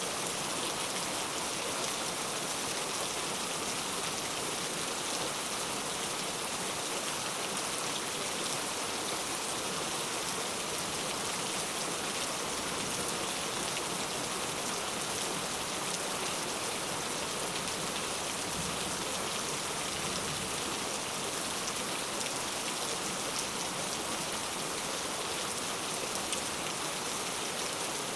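Steady rain falling on a surface, an even hiss of many raindrops with no change in strength.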